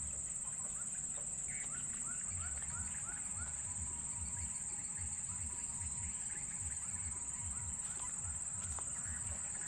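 Steady high-pitched drone of insects such as crickets, with runs of short, quick rising chirps over it.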